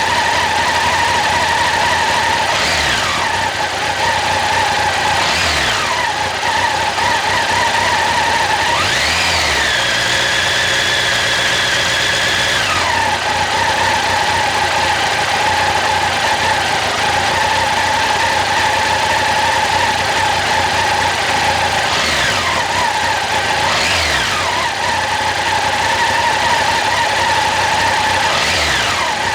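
Honda CB1100SF X-11 inline-four engine idling and being revved in short throttle blips, with one longer hold at higher revs near the middle. A steady whine rises and falls with engine speed.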